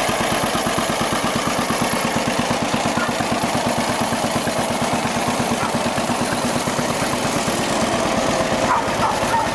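John Deere tractor's engine running steadily at an even, unchanging speed.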